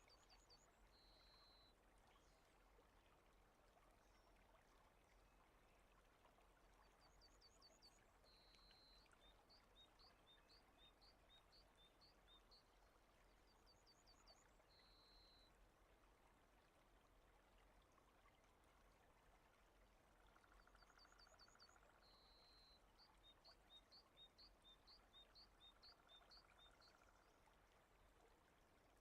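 Very faint steady rain ambience, with a small songbird repeating one high phrase about every seven seconds: a quick run of notes, a short held whistle, then a string of chirps.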